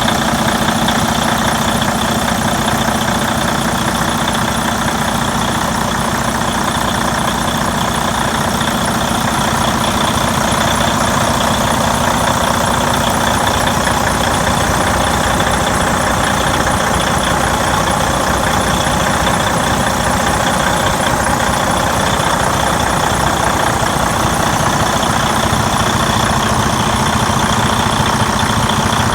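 Detroit Diesel DD15 14.8-litre inline-six diesel of a 2010 Freightliner Cascadia semi tractor idling steadily.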